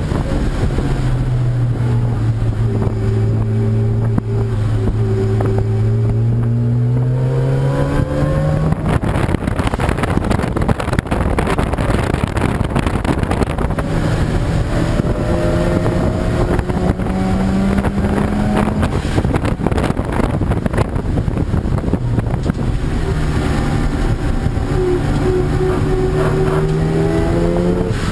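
Race car engine accelerating, its pitch climbing slowly over several seconds, three times, over a steady rush of wind noise.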